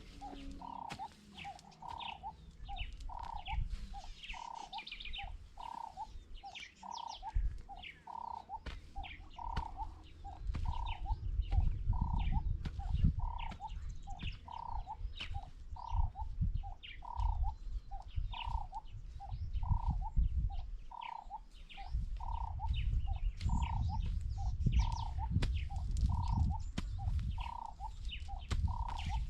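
A bird repeats a single short note steadily, a little more than once a second, with fainter chirps from other birds. From about a third of the way in, heavy low thumps and rumbling on the microphone join it and become the loudest sound.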